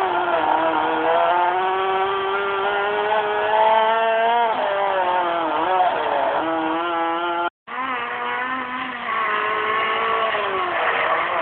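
Peugeot 206 rally car engine under hard acceleration, its pitch climbing and dropping repeatedly as it revs up and shifts gear. The sound cuts out for a moment about two-thirds of the way through, then the engine picks up again.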